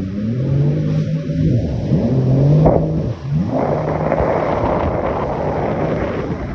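Jet ski engine running at speed, its pitch falling and rising as the throttle changes, with a quick drop and climb about halfway through. After that a loud rushing hiss of spray and wind sits over the engine.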